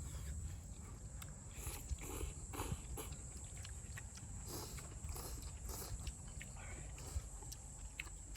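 People slurping and chewing ramen noodles and stew, in short irregular bursts.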